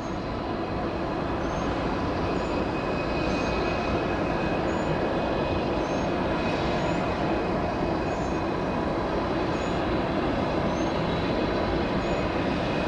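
Jet airliner engines running with a steady roar and a thin whine, growing a little louder over the first few seconds and then holding.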